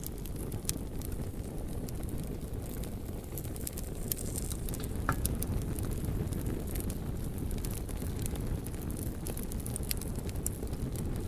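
Wood fire burning, with frequent sharp crackles and pops over a steady low rumble. About five seconds in, a brief high hiss or whistle.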